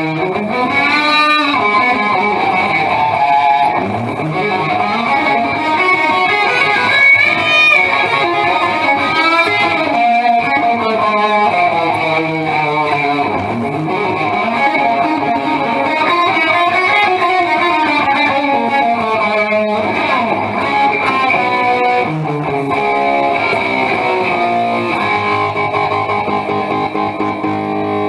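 Stock Gibson Explorer electric guitar played through a Marshall JVM410H amp set for a 70s Super Lead-style hard-rock tone, into Marshall 1960 cabinets with no pedals: single-note lead lines with repeated string bends and vibrato.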